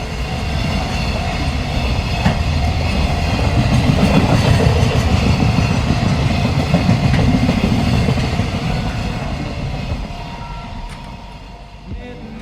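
Train passing by: a rumble with rail clatter that swells to its loudest about four to five seconds in, then fades away.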